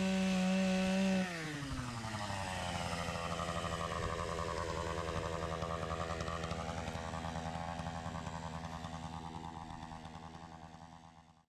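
Chainsaw at full throttle, its pitch dropping sharply to idle about a second in as the throttle is released; it then idles with an even pulsing and fades out near the end.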